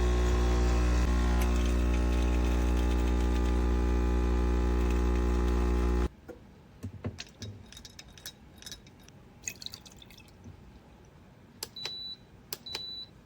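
Espresso machine pump buzzing steadily while brewing, stopping abruptly about six seconds in. Light clicks and taps follow, with two short high beeps near the end.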